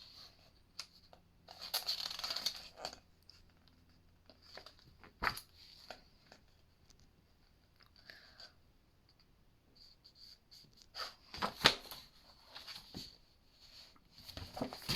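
Pages of a print-and-pattern book being turned: short papery rustles and flicks, with a burst about two seconds in and a cluster of rustles and a sharper slap near the end.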